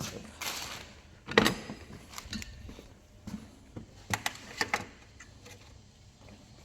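Metal hand tools and engine parts clicking and knocking in short, scattered strokes, with the loudest knock about a second and a half in and a quick run of clicks around four seconds in.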